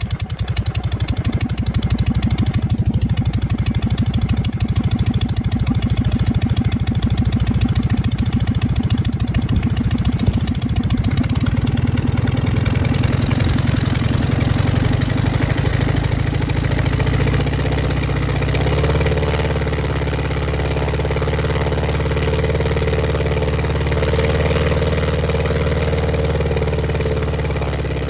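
VW air-cooled flat-four airplane engine running rough on only two of its cylinders, a fast uneven firing beat. A little past halfway the pitch shifts and a wavering higher tone comes in.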